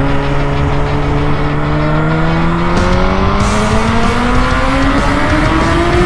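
2002–2003 Yamaha R1 (RN09) 998 cc inline-four through an Arrow exhaust with its dB-killer removed, accelerating hard in one gear. The exhaust note rises steadily in pitch throughout.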